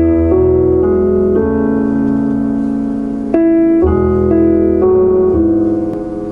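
Keyboard playing slow, held piano chords that change every second or two: the intro of a soft pop ballad.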